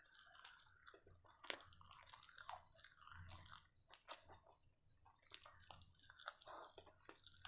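Person chewing fried chicken kebab close to the microphone, with soft, irregular crunches and one sharp click about a second and a half in.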